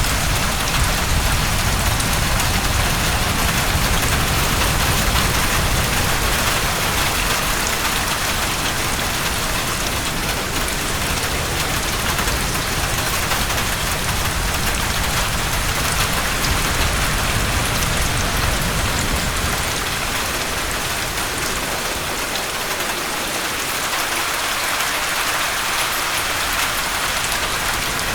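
Heavy rain falling steadily, a dense even hiss of drops, with a low rumble underneath that eases off about twenty seconds in.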